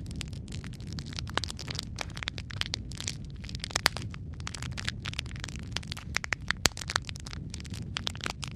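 Wood fire crackling in a fireplace: many sharp irregular pops and snaps over a steady low rumble of the flames.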